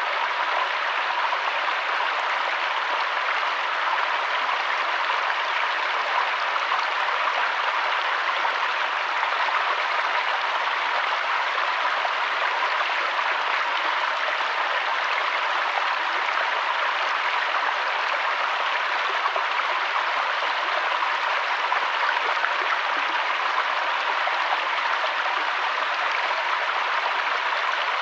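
Flowing river water rushing steadily, an even hiss with no breaks or changes.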